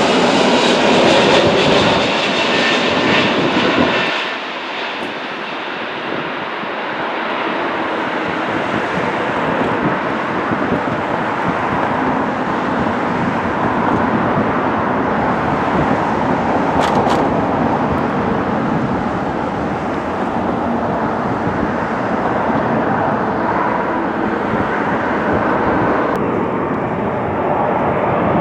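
Jet airliner's engines, loud with a high whine at first. About four seconds in the sound drops a little, and then it goes on as a steady broad engine rush.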